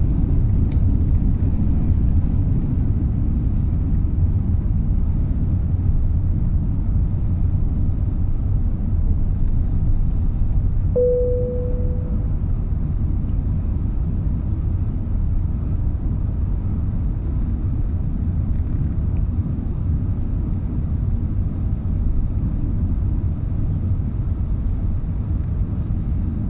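Steady low rumble of a British Airways Airbus A380's Rolls-Royce Trent 900 engines and airflow during take-off, easing off slightly over time. A single ringing tone sounds once about eleven seconds in and fades.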